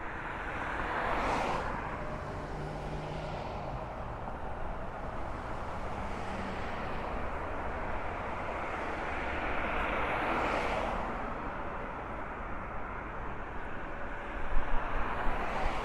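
Road traffic on a busy street: a steady wash of cars and tyres, with two vehicles passing close by, one about a second in and one around ten seconds in.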